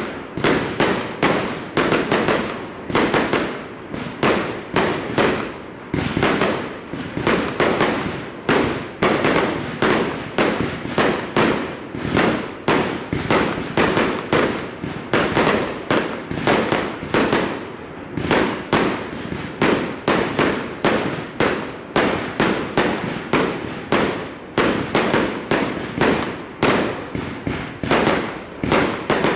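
A long barrage of big, powerful aerial firework bangs going off in rapid succession, about two to three a second, each dying away briefly before the next.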